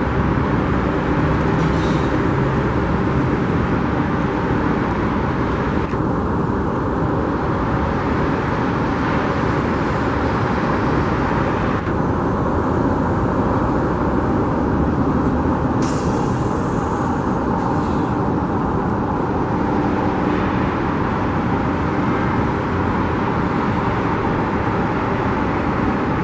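Steady road traffic noise, an even rumble with a faint low engine drone running under it.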